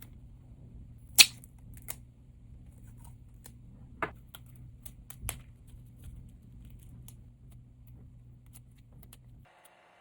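Sharp clicks and taps of small teardown tools working on a smartphone's parts, the loudest about a second in, with a few more spread through, over a low steady hum that stops near the end.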